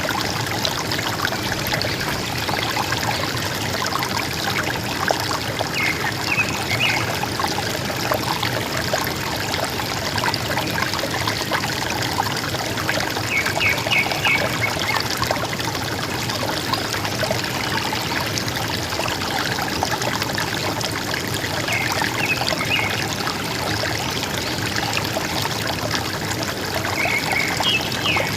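A river gurgling and trickling steadily over stones, with a forest bird calling now and then: short runs of a few quick high notes, several seconds apart.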